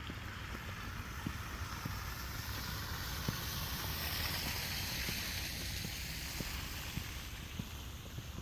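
A vehicle passes on a snowy road, its tyre hiss swelling to a peak about halfway through and then fading. Footsteps in snow keep a steady walking pace throughout.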